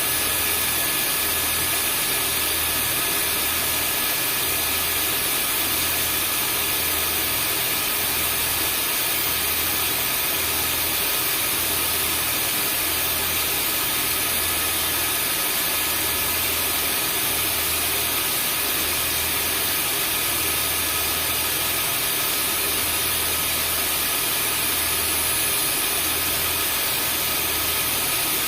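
Vacuum cleaner running steadily: a continuous rushing hiss with a few steady whining tones over it, and a low hum underneath that pulses gently about once a second.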